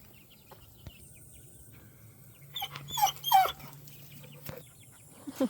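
A dog gives a few short, high, sliding whines about halfway through, eager to get at small chicks. Faint high peeping from the chicks runs underneath.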